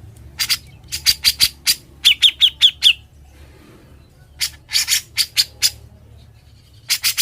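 Cucak jenggot (grey-cheeked bulbul) singing loud and fast: three bursts of rapid sharp chips mixed with short falling whistled notes, the bursty 'ngebren' song used as masteran for tutoring other songbirds.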